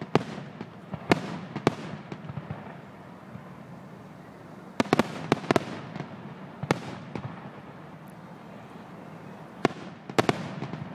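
Fireworks display: aerial shells bursting with sharp bangs in irregular groups, a cluster of them about halfway through, each bang trailing off in echo.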